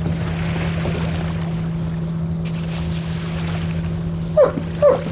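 Motorboat engine running at a steady drone, with wind and water noise. Near the end come two short, loud cries, one after the other, that fall in pitch.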